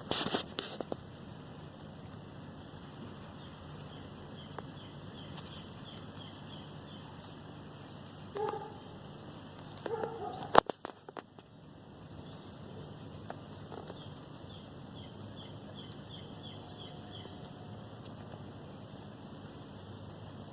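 Outdoor lawn ambience with a small bird repeating a quick run of short, high, evenly spaced notes, twice. About ten seconds in, a sharp click, the loudest sound, follows a couple of short louder calls.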